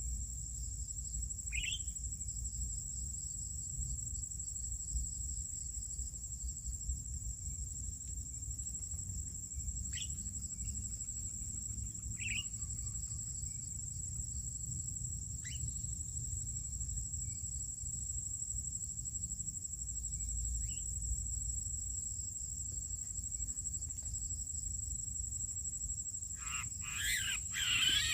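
A steady high-pitched drone of crickets or other insects, with a few short, sparse bird chirps. In the last two seconds there is a louder burst of rapid bird calls.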